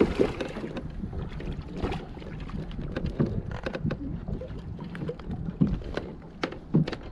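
Irregular knocks, clicks and rattles of fish and tackle being handled against a plastic fishing kayak, over a steady low rumble of wind and water.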